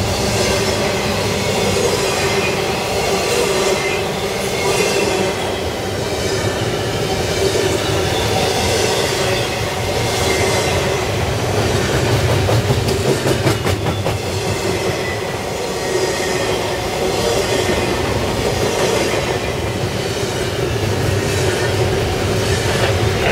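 Empty double-stack container well cars of a CSX freight train rolling past: a steady rumble and clatter of steel wheels on rail that swells and eases as each car goes by, with a run of rapid clicks around the middle.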